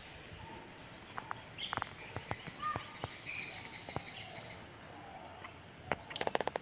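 Faint short bird chirps over a steady high background hiss, with scattered light clicks and taps that come in a quick cluster near the end.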